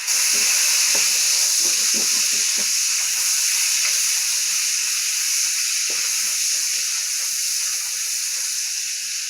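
Chopped bacon frying in a wok in its own rendered grease: a loud, steady sizzle that starts abruptly and eases off slightly toward the end.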